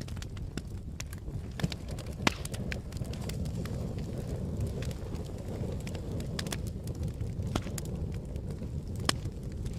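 Campfire burning with a steady low rumble of flames and irregular sharp crackles and pops of burning wood, the loudest pops about two seconds in and near the end.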